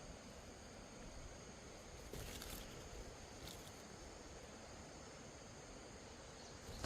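Faint steady background hiss with a few brief, soft rustles or scrapes, one about two seconds in and another about three and a half seconds in.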